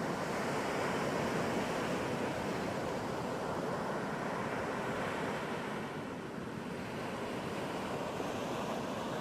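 Ocean surf: a continuous wash of breaking waves that eases a little about six seconds in and swells again.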